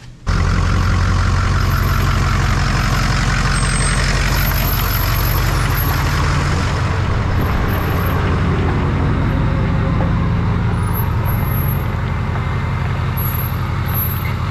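Water spraying hard from a hose onto a truck bed, a dense steady hiss, over an engine running steadily with a low hum. The sound cuts in suddenly just after the start and holds evenly.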